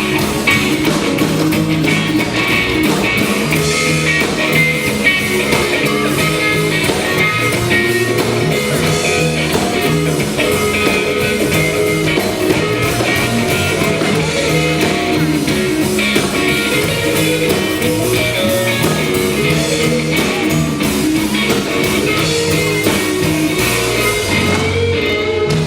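Live rock band playing an instrumental passage, guitar to the fore, with no singing.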